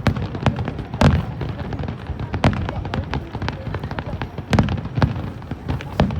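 Aerial fireworks shells bursting in a rapid series of booms and cracks over a continuous low rumble. The loudest bursts come about a second in and again around four and a half seconds.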